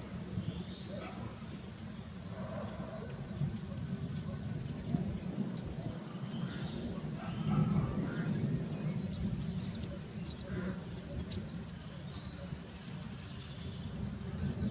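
A cricket chirping steadily, a high note repeated about four to five times a second, over a low continuous outdoor rumble with faint scattered bird calls.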